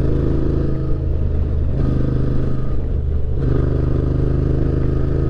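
Yamaha Ténéré 700's parallel-twin engine running at a steady cruise while the motorcycle is ridden.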